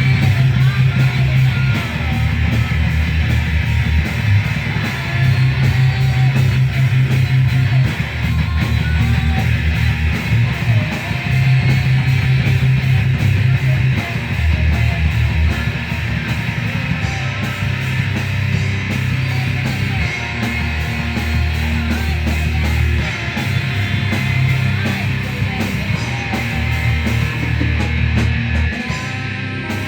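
A full rock band playing a heavy, punk/metal-style song: distorted electric guitar over bass and drums. The low bass notes are held and shift every couple of seconds, and the cymbals thin out near the end.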